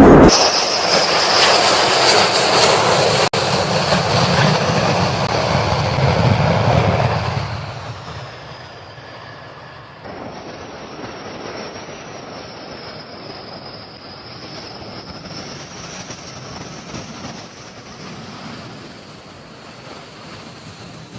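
Aircraft jet engine noise: a loud roar with a steady high whine for about seven seconds, then much quieter, the high whine carrying on and wavering slightly in pitch.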